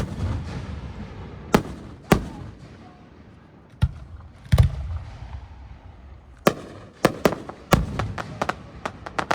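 Aerial fireworks shells bursting: single loud bangs every second or two, each with a rumbling tail, the deepest boom about four and a half seconds in. Near the end comes a quick run of smaller pops.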